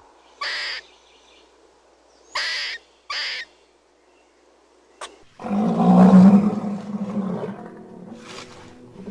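Animal sounds: three short breathy bursts, then from about five seconds in a longer, louder, low-pitched call.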